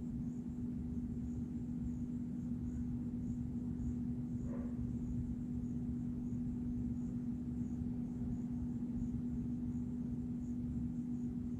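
A steady low-pitched hum over a low rumble, with a faint high ticking about twice a second and one short chirp about four and a half seconds in.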